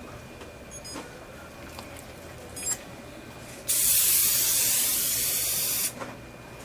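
A single blast of air from a dental air-water syringe, a steady hiss lasting about two seconds that begins a little past the middle and cuts off sharply. A few faint clicks come before it.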